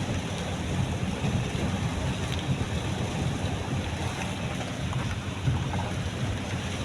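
Steady rain and road rumble heard from inside a moving car's cabin, an even wash of noise with no distinct events.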